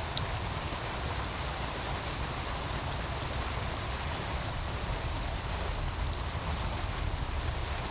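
A wood fire crackling beside a steadily rushing meltwater stream: a continuous hiss of running water with a low rumble under it, and scattered sharp pops from the burning wood, the loudest two near the start.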